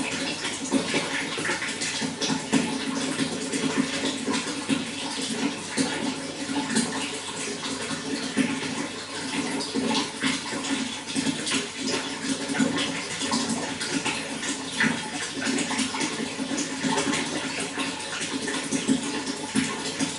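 Running water flowing and splashing steadily, with many small splashes in a constant wash of noise.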